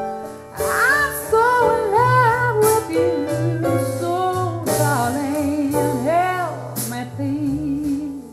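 Recorded jazz ballad played through a JBL Control 28 loudspeaker: a woman's voice sings long, wavering, ornamented notes over a slow accompaniment, fading near the end.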